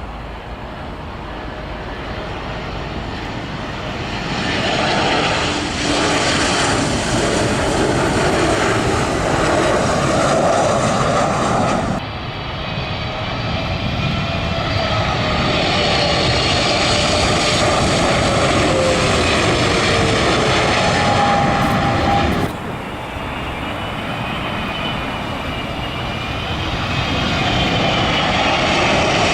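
Jet airliners on final approach passing low overhead: loud engine noise swells with each pass, carrying whining tones that slide down in pitch as each aircraft goes by. The sound changes abruptly twice, about 12 and 22 seconds in, where one landing aircraft gives way to the next.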